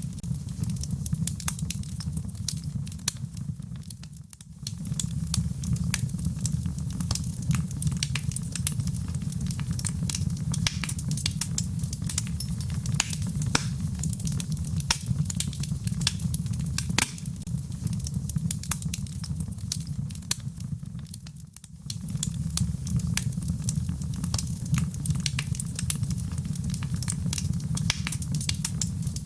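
Wood fire burning: frequent sharp crackles and pops over a steady low rumble of flame. The whole sound drops away briefly twice, about four seconds in and again about twenty-one seconds in.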